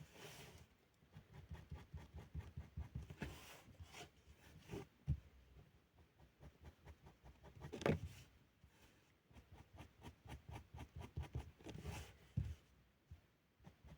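Felt-tip pen scratching on paper in quick, repeated short strokes, with a few soft knocks, the loudest about eight seconds in.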